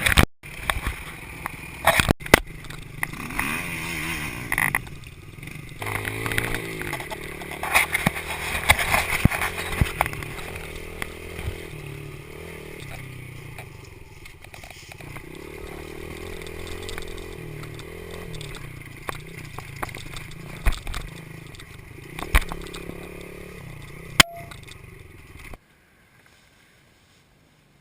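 Dirt bike engine running, its revs rising and falling, with scattered knocks and rattles. The sound cuts off suddenly near the end.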